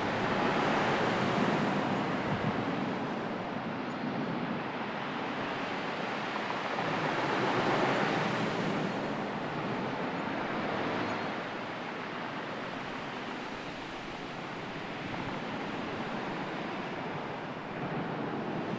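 Sea surf: a steady rush of waves washing in, swelling near the start and again about eight seconds in, then easing.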